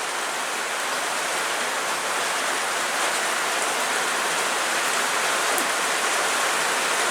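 Heavy rain pouring down in a steady downpour, getting slightly louder over the few seconds.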